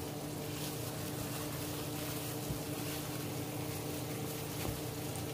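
Chicken frying in oil in a skillet, an even steady sizzle over a steady low hum, with two faint soft knocks about two and a half and four and a half seconds in.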